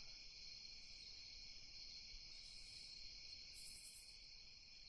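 Faint night ambience of crickets chirring steadily, with a higher insect trill coming in twice in the middle.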